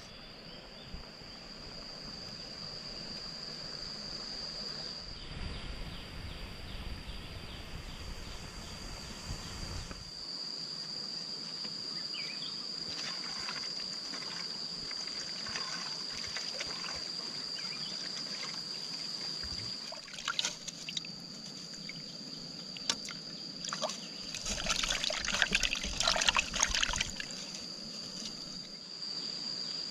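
Steady high drone of crickets or other insects, with water trickling and sloshing, and louder splashes twice in the second half.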